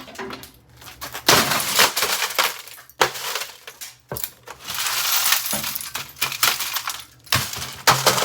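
Samsung over-the-range microwave being smashed apart: repeated crashing and crunching with glass and metal pieces clinking and clattering, several bouts of a second or more with sharp hits in between.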